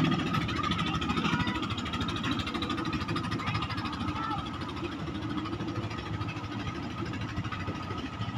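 Engine of a klotok river boat running with a steady low chugging, loud at first and easing off over the first second.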